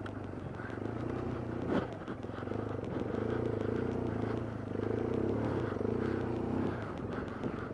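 BMW GS adventure motorcycle engine running at low speed, its note swelling and easing twice as the throttle is worked through loose sand, with a sharp click about two seconds in.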